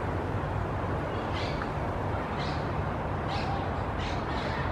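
Short, high, hoarse bird calls repeating about once a second over a steady low background rumble.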